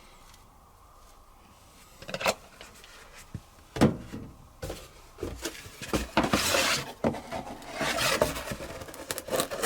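Quiet for about two seconds, then a series of knocks and clatter mixed with rubbing and scraping as detergent is put into a washing machine's dispenser drawer.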